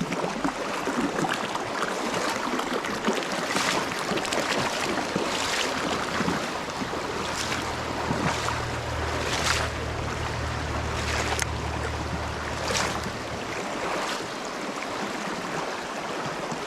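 Running river water, a steady rushing hiss, with scattered sharp clicks or splashes and a low steady hum from about a third of the way in to about three-quarters.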